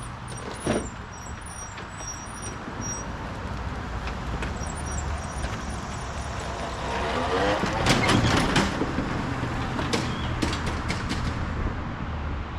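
A vehicle engine running steadily, with a spell of metallic rattling and clanking about seven to nine seconds in.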